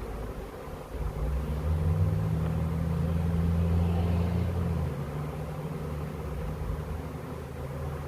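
Honey bee swarm humming around a nuc box. A louder low drone swells about a second in and fades out about five seconds in.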